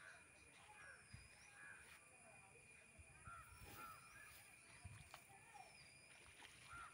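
Faint bird calls: scattered short, repeated calls and three thin rising whistles over a steady high-pitched hum.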